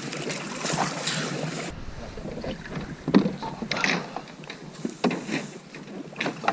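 Paddles dipping and splashing in lake water in uneven strokes, with wind noise on the microphone.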